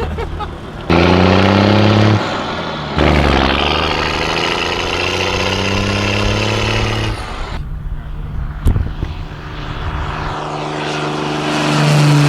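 Small propeller plane's engine running and revving up, its pitch rising slightly, heard in several short clips that cut in and out abruptly.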